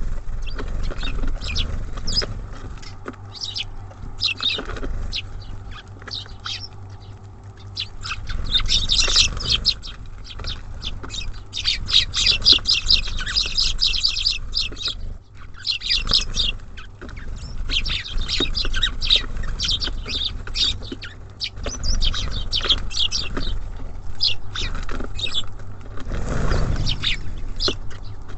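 Small songbirds at a bird feeder chirping in rapid clusters of short high notes that come and go throughout, over a steady low rumble.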